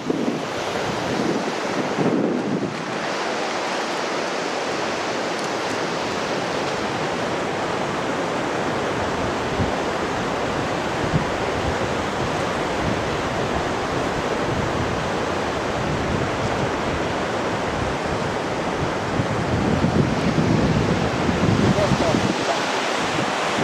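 Steady rush of falling water from a waterfall, with low wind buffeting on the microphone near the end.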